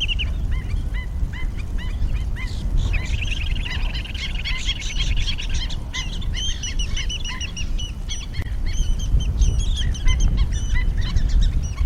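Several shorebirds calling over one another with short, sharp, repeated calls, including a fast run of calls about three seconds in, over a steady low rumble.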